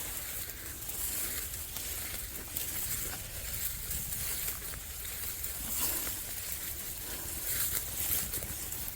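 Outdoor ambience: a steady high hiss over a low rumble of wind on the microphone, with small irregular ticks.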